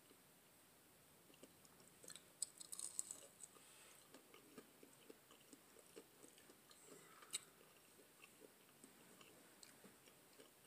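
Faint close-miked chewing of fried catfish, with soft crunches and wet mouth clicks, busiest about two to three and a half seconds in, and a single sharper click a little after seven seconds.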